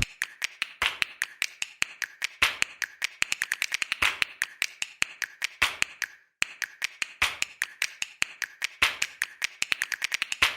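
A rapid, irregular series of sharp clicks and taps, several a second, stopping briefly about six seconds in and then starting again.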